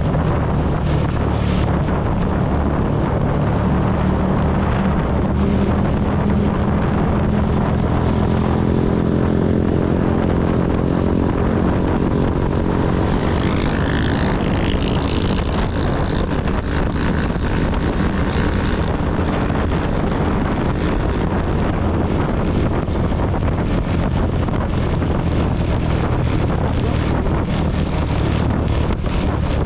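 Honda CB250 motorcycle engine running under way, with a steady hiss of wind and heavy rain on the microphone. The engine note climbs a little about a third of the way in.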